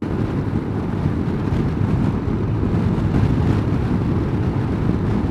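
Steady rush of riding wind on the microphone over the low running of a Honda motorcycle's engine at road speed.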